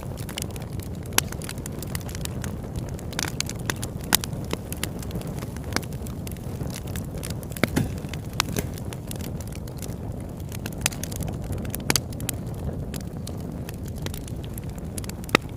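Campfire burning: irregular sharp crackles and pops from the wood over a steady low rumble of the flames.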